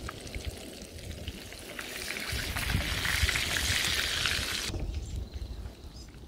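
Crumbed jack mackerel and roe frying in hot oil in a pan: a steady crackling sizzle that swells to its loudest about halfway through and drops off abruptly soon after.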